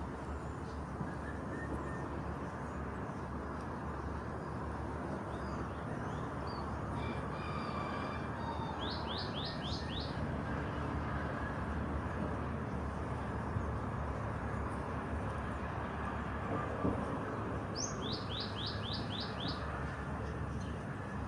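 Small songbird calling twice, each time a quick run of sharp downward-sweeping chirps: about five notes some nine seconds in, and about seven near the end. Under it there is a steady outdoor background noise.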